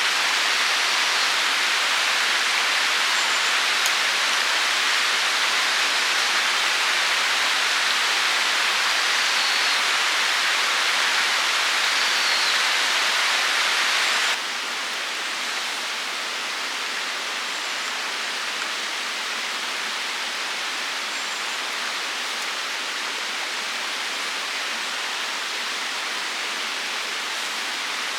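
Steady, even rushing noise like falling rain or running water. It drops suddenly in level about fourteen seconds in.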